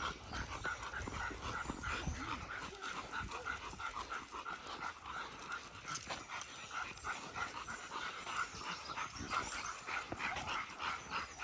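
Dogs being walked, with a steady rhythm of soft pulses about three times a second.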